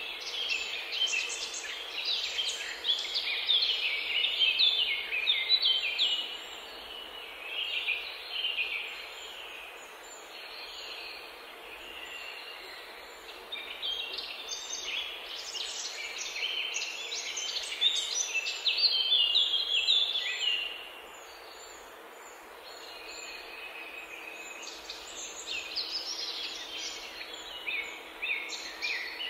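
Many small songbirds chirping and twittering at once, a dense chatter of short high calls. It comes in busy spells, with quieter lulls about a third of the way in and again about two-thirds through.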